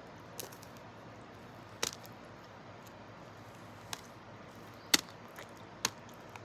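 Close-up eating sounds of chewing a chocolate-dipped frozen banana coated in pistachios and almonds: about five short, sharp crunches and mouth clicks, spaced a second or so apart, over a faint steady hiss.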